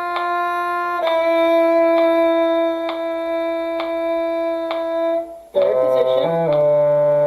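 Violin playing long bowed held notes, the second a little lower, over a faint click about once a second. About five and a half seconds in, lower-pitched bowed notes take over and move in steps.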